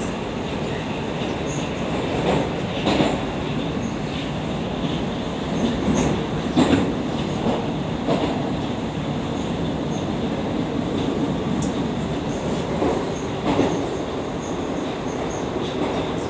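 Moscow Metro 81-760/761 "Oka" train running between stations, heard inside the car: a steady rumble with a few louder knocks from the wheels on the track, the loudest a little before halfway.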